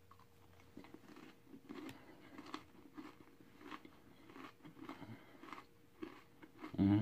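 A person chewing a mouthful of two yogurt- and chocolate-coated pretzels eaten together, with soft, even crunches about two to three times a second. A brief voiced sound comes right at the end.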